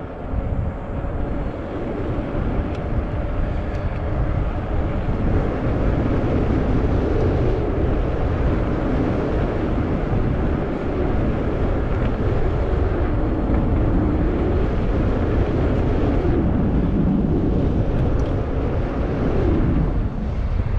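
Wind rushing over the microphone of a handlebar-mounted camera on a moving e-bike, a steady low rumbling rush.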